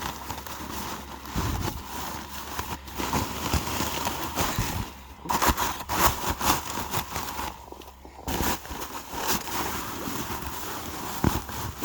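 Irregular crackling and rustling, made of many short clicks, with louder bursts about halfway through.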